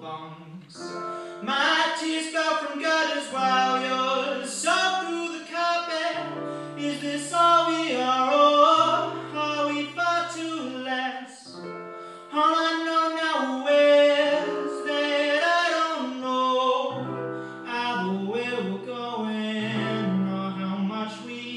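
A solo male singer sings a melody over piano accompaniment, with held low chords under the voice.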